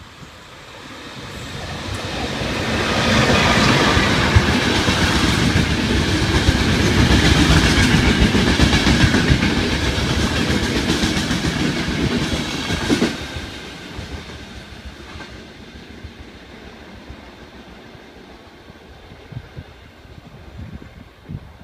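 An electric-hauled Intercity passenger train passing through the station without stopping. The noise of wheels and coaches swells over a few seconds and stays loud for about ten seconds. It then drops off sharply and fades as the train draws away.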